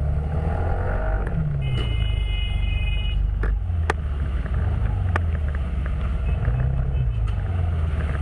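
Car engine and road noise, a heavy steady low rumble. A steady high-pitched tone sounds for about a second and a half near the start, and a few sharp clicks follow.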